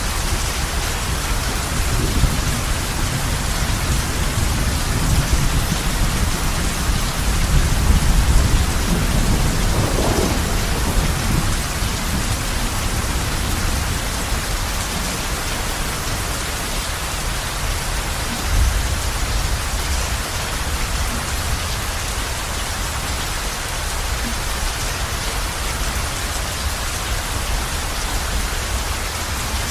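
Heavy rain drumming steadily on a roof, with a low thunder rumble that swells and peaks a few seconds in, then fades back under the rain.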